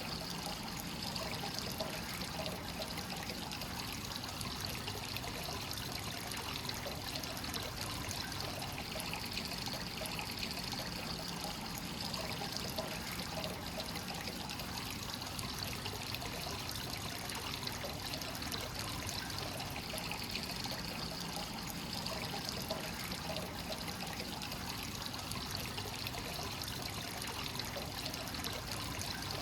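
Hot spring source water flowing continuously into a bath, a steady trickling and pouring.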